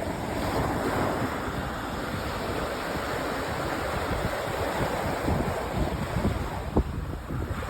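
Sea surf washing onto a sandy beach: a wave breaks and its wash swells about a second in, then hisses on steadily. Wind buffets the microphone throughout, with a brief thump near the end.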